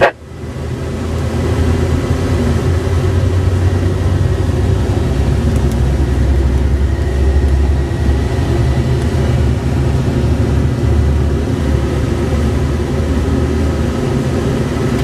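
Car engine and road noise heard from inside the moving car: a steady low rumble that builds over the first second or two, then holds.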